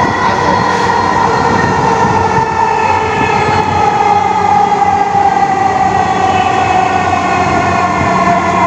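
Dhaka Metro MRT Line 6 electric train running, heard from inside the car: rumble under a steady electric whine of several tones. Through the second half the whine's pitch falls slowly as the train slows on its approach to a station.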